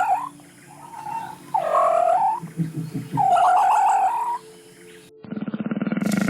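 An animal calling three times, each a wavering call about a second long. About five seconds in, a different low, rapidly pulsing animal sound starts.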